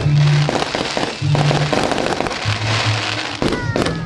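Aerial firework shells bursting with several sharp bangs and a crackling hiss, over music with a deep bass line.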